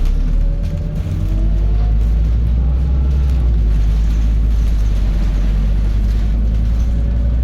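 Scania N280UD double-decker bus's five-cylinder diesel engine running under way, heard from inside the bus: a deep, steady drone with faint whines that rise in pitch as the bus picks up speed.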